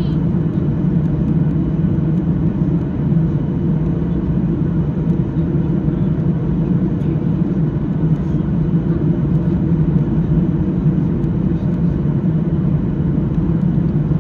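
Steady, even rumble of a Boeing 737-800 in flight, the engine and airflow noise heard inside the cabin.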